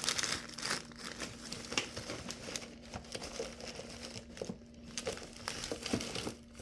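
Packaging crinkling and rustling as it is handled, a run of small irregular crackles, over a faint steady hum.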